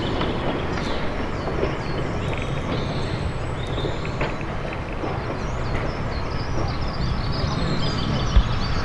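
Steam-hauled goods train of wagons and a brake van rolling slowly away along the track, a steady low rumble, with birds chirping over it. A single thump near the end.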